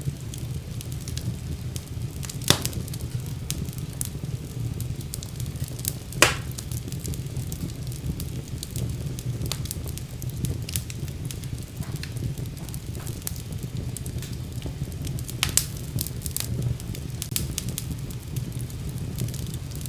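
Fire burning in a fireplace: a steady low rumble of flames with scattered soft crackles and a few sharper pops, the loudest about two and a half seconds and six seconds in.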